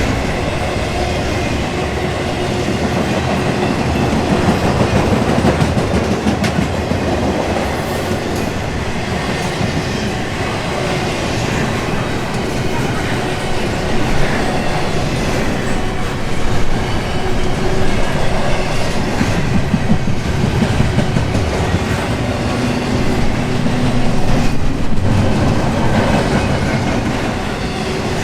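Intermodal container cars of a freight train rolling past steadily, the wheels clicking over rail joints.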